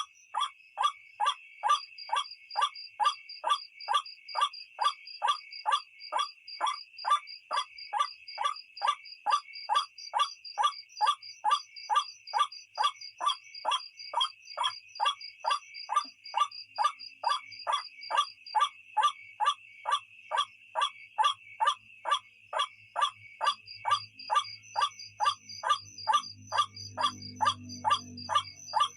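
White-breasted waterhen (ruak-ruak) calling, short harsh notes repeated evenly about twice a second, from a lure recording used for night trapping. A steady high drone of crickets runs underneath, and a low hum comes in near the end.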